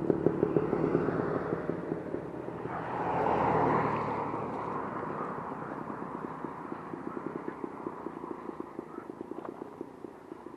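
Simson SR2 moped's two-stroke engine running with a rapid pulsing buzz, fading steadily as it moves away, with a brief swell about three seconds in.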